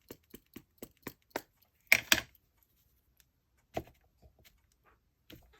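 Quick light tapping, about four taps a second, then two louder knocks about two seconds in and a few softer knocks afterward: a rubber script stamp being inked on a StazOn ink pad and pressed down onto paper.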